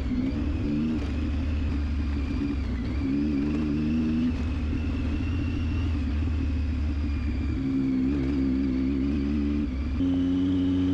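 Triumph Tiger 800XC's 800 cc inline three-cylinder engine running at a steady cruise with a low rumble, its note wavering slightly with the throttle. About ten seconds in, the note steps up a little and steadies.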